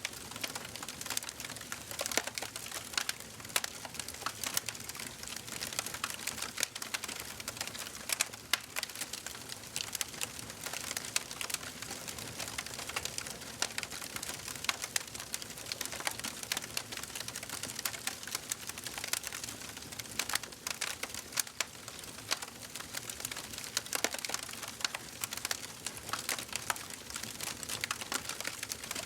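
Wood fire burning in a fireplace: a steady soft hiss with many irregular sharp crackles and pops.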